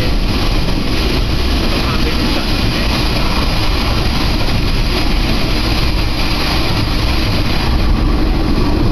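Diesel railcar running along the line, heard from inside the carriage: a steady, loud rumble of engine and wheels on rail that swells slightly near the end.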